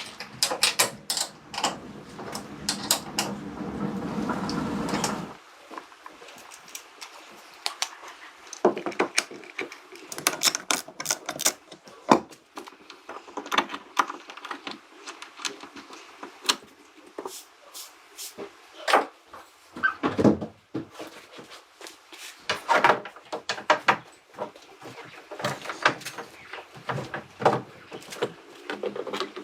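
Irregular clicks, knocks and clatter of objects being handled, with a steady low rumble that cuts off suddenly about five seconds in.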